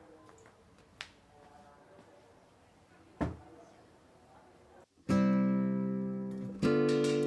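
Faint background with two light clicks, then, about five seconds in, strummed acoustic guitar chords start and ring out, re-struck every second or so.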